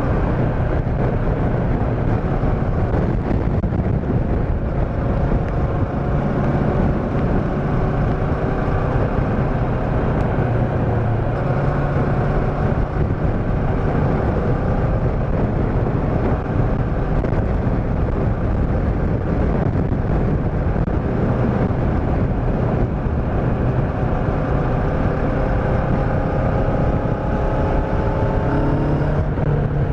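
Motorcycle engine running under way with steady wind noise; the engine note holds fairly even, then rises near the end as the bike picks up speed.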